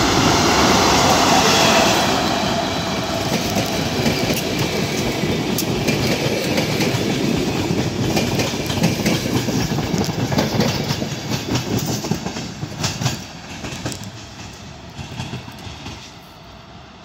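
Passenger train hauled by a Škoda electric locomotive passing close by, loudest as the locomotive goes past at first. Then comes a long run of wheels clacking over rail joints and points as the coaches roll by, fading as the train pulls away.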